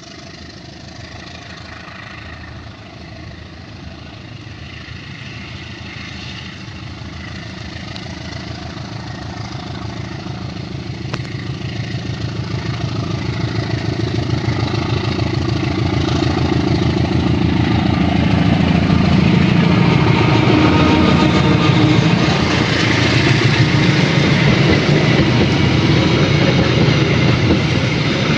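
CC201 diesel-electric locomotive's engine running as the train approaches, growing steadily louder over the first two-thirds and then holding loud.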